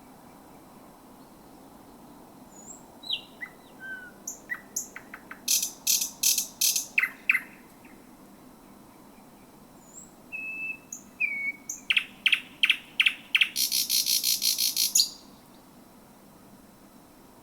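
A thrush nightingale singing at close range: two loud phrases a few seconds apart, mixing short whistles with dry, rapid clicking notes. The second phrase ends in a fast rattle lasting about a second and a half. A faint steady low hum lies underneath.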